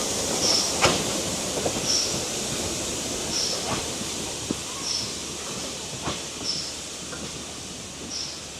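Heritage railway train running slowly on the track, with a short high squeak repeating about every second and a half and gradually spacing out, and a few knocks. The sound fades slowly.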